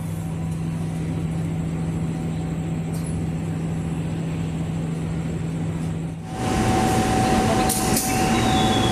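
Steady hum of a passenger train standing at the platform before departure. About six seconds in it switches abruptly to louder, rougher train noise with a steady whine running through it.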